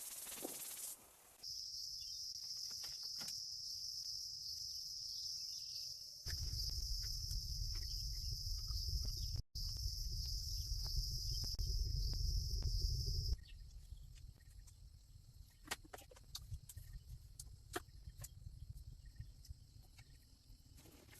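A steady, high-pitched chorus of insects chirping over a low rumble, cutting off and back in abruptly several times. About two-thirds of the way through it stops, leaving scattered light clicks and knocks.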